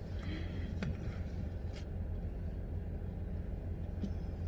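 Steady low rumble of a car's engine running, heard from inside the cabin, with a few faint ticks.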